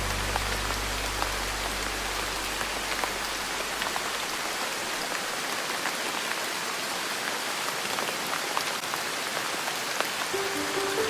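Steady rainfall: an even hiss with scattered sharp ticks of single drops. Soft low music notes fade away over the first few seconds, and the music comes back near the end.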